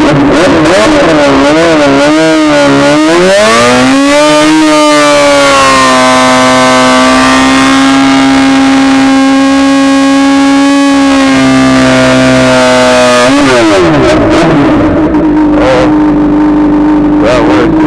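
Straight-piped 2008 Honda CBR600RR engine revving hard, its pitch wavering up and down with the throttle, then climbing and held high and steady for several seconds before dropping back.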